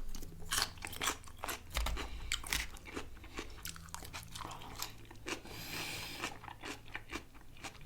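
Close-miked chewing and biting of food, a run of irregular wet clicks and crunches from the mouth.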